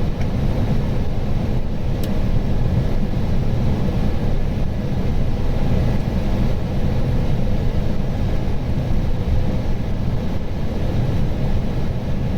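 Steady rush of airflow and air-conditioning noise inside an Airbus A320 cockpit on approach, with a faint click about two seconds in.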